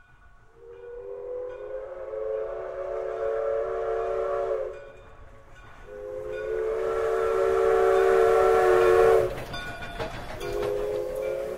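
Train whistle sounding a chord in three blasts: two long ones and a shorter third near the end, over a low rumble and hiss.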